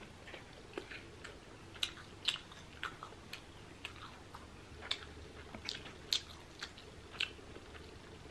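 A person chewing a mouthful of chicken pizza close to the microphone: soft, wet mouth clicks and smacks at irregular intervals, about one or two a second.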